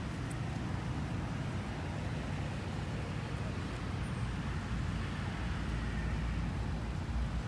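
Steady low rumble with an even hiss of outdoor background noise, unchanging throughout.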